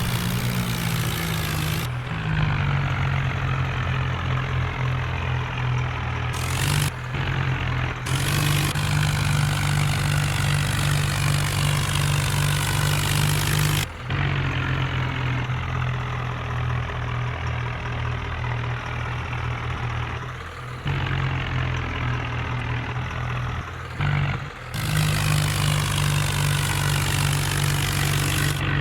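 Tractor engine running steadily, its tone changing slightly across several abrupt breaks where separate clips are joined.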